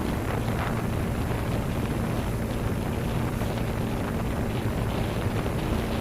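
Wind rushing over the microphone on a moving motorcycle, with the bike's engine humming steadily underneath.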